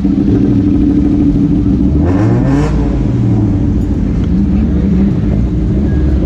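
Car engine running with a steady low drone, blipped once in a short rev that rises and falls about two seconds in, then a smaller rise a couple of seconds later.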